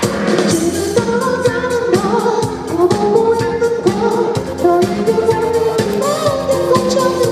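Korean pop song performed live: a man singing over a steady drum beat and band accompaniment.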